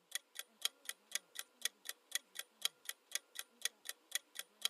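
Ticking-clock countdown timer sound effect: even ticks about four a second, alternating louder and softer like a tick-tock.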